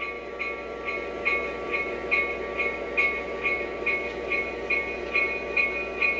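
Scale model train running on a layout: a steady hum with a light, regular click about twice a second.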